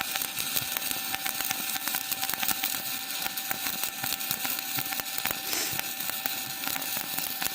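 Stick welding arc from an ESAB 180i Pro inverter welder, an electrode burning on 3 mm steel box section: a steady crackle and sizzle with many sharp pops, held without a break.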